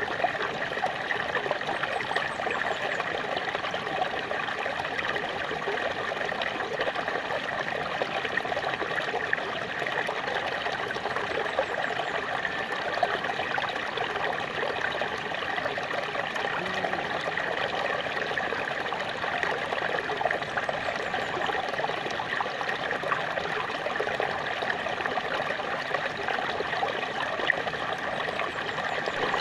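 Small waterfall: water splashing and trickling steadily, with small sharp splashes in the rush.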